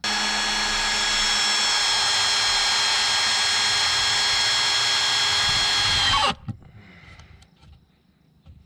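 Power drill driving a long screw, about six inches, into a wooden 4x4: the motor runs steadily at a constant whine for about six seconds, sags slightly in pitch as the screw seats, and cuts off.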